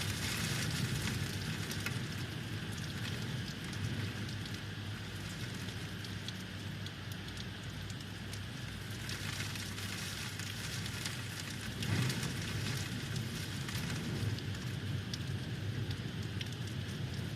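Heavy rain falling steadily, a dense patter of many small drop impacts, over a low rumble of wind. It swells louder about a second in and again around twelve seconds in.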